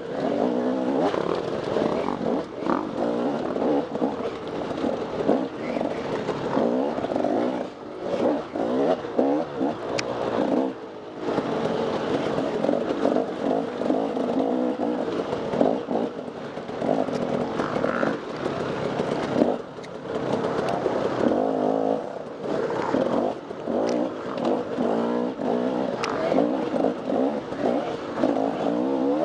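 Dirt bike engine revving hard under load, its pitch rising and falling constantly with the throttle and dropping away briefly several times as the throttle is shut off. A few sharp knocks sound over it.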